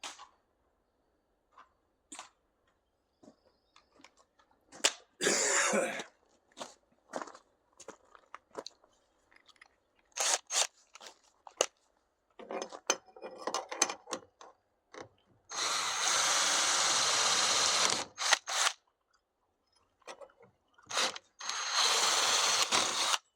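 A power tool running in two steady stretches, about two and a half seconds around the middle and a shorter one near the end, starting and stopping sharply. Scattered clicks and knocks from handling tools and aluminum parts come in between.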